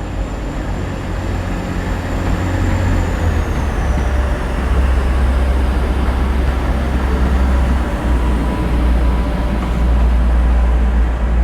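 Class 185 diesel multiple unit's Cummins diesel engines running under power as it pulls away: a deep, steady rumble that grows louder about three seconds in and again near the end, with a faint high whine sliding down in pitch.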